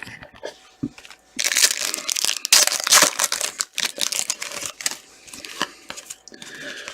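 Foil wrapper of a hockey trading card pack being torn open and crinkled, loudest from about one and a half to three and a half seconds in, followed by lighter rustling and clicks of the cards being handled.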